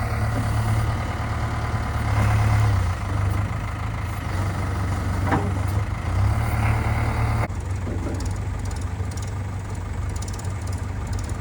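Heavy diesel engine running steadily with a low rumble. There is one sharp click about five seconds in, and the overall sound changes abruptly about seven and a half seconds in.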